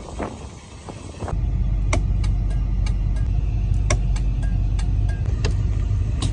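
Car engine running with a steady low rumble that comes up about a second in, with scattered sharp clicks over it.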